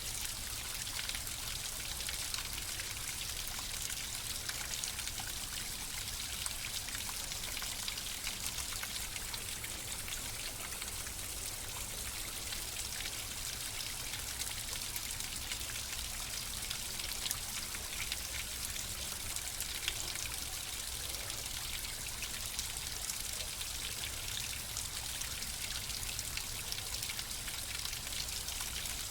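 Flowing water running steadily, with a constant rush and many small splashing ticks and droplets throughout.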